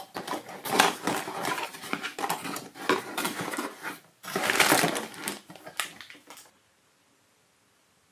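Colourful balls rolling down a plastic TrixTrack wave-slope marble run, clattering step by step in a dense run of quick clicks and clacks. The clatter pauses briefly about four seconds in, then dies out about six and a half seconds in.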